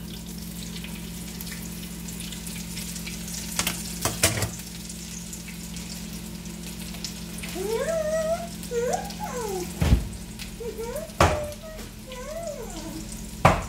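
Bean taquitos frying in a pan of oil on a gas stove, a steady sizzle, with a few sharp knocks scattered through it.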